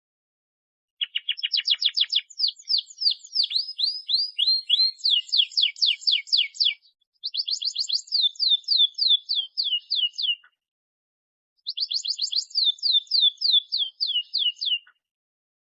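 Canary singing: three long phrases of fast, rapidly repeated high chirps and trills, separated by short silent gaps.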